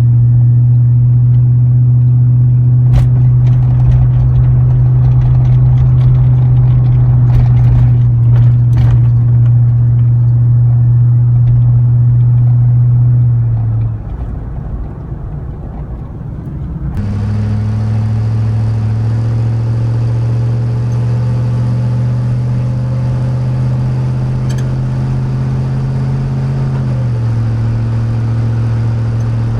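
Chevy 5.3L LM7 V8 exhaust through a Cherry Bomb chambered muffler, heard inside the truck's cab as a steady low drone at a constant engine speed. About 14 s in the drone eases off and drops slightly in pitch. About 17 s in it cuts to another steady drone with more upper harmonics.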